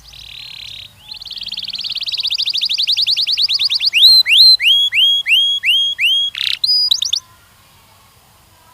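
A canary singing one song phrase. A short buzzy note leads into a fast trill that swells in loudness over about three seconds, then come about six loud downslurred whistled notes, a harsh buzzy note and a quick flourish, and the song stops about seven seconds in.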